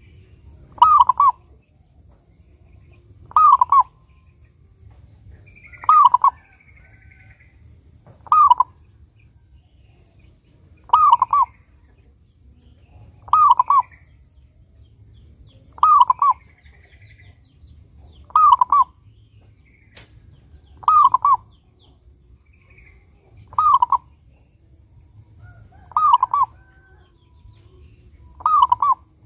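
Local zebra dove (perkutut) cooing, a short phrase of a few notes repeated very regularly about every two and a half seconds, over a faint low hum.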